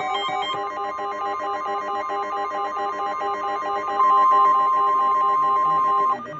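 Weather-alert broadcast tones: a repeating pattern of electronic beeps, then, about four seconds in, a loud steady warning alarm tone near 1 kHz. The alarm holds for about two seconds and cuts off suddenly. The alarm tone signals that a warning, here a severe thunderstorm warning, is about to be read.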